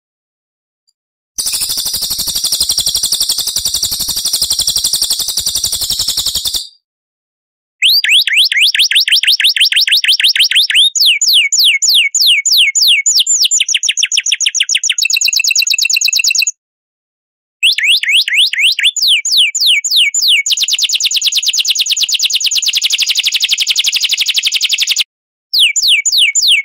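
Recorded songbird song played as a sequence of edited clips with abrupt short silences between them: first a dense, high buzzy trill, then long runs of rapid repeated notes that each sweep in pitch, several per second, with a high buzzy passage in between.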